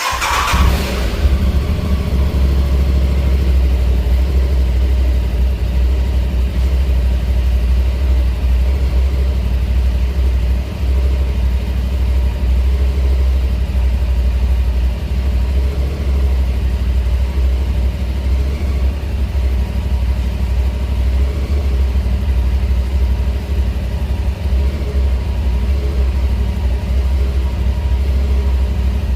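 Aprilia Tuareg 660's parallel-twin engine starting, briefly louder as it catches, then idling steadily through a Zard de-cat pipe and slip-on exhaust.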